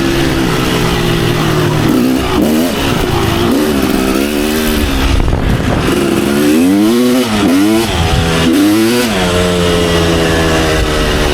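Kawasaki KX250 dirt bike engine running hard under throttle. Its revs hold fairly steady at first, then fall and climb sharply several times in the middle before settling again.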